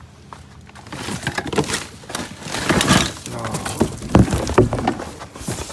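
Hard scrap pieces clattering and knocking together as they are rummaged through and moved about, a quick run of many knocks starting about a second in.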